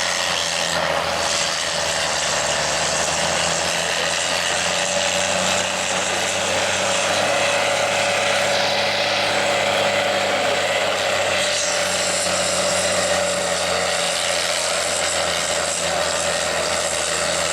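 Farm tractor's six-cylinder diesel engine running hard at high revs under full load, pulling a weight-transfer sled down the track; a steady, loud drone that holds its pitch.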